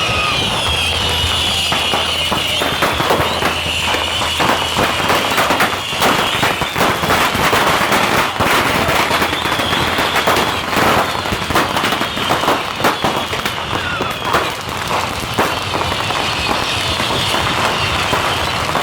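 A mass barrage of bottle rockets fired off in quick succession: a dense, unbroken crackle of bangs and pops over high whistling shrieks.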